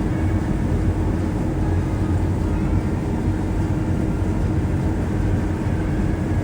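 Heavy diesel engine of a harvest vehicle running steadily: a loud, unchanging low drone with a constant hum.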